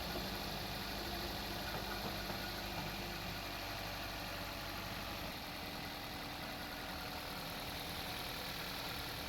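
Toyota 2NZ four-cylinder petrol engine idling steadily, freshly restarted after its tappets were adjusted and its tappet cover refitted. The low hum shifts slightly about five seconds in.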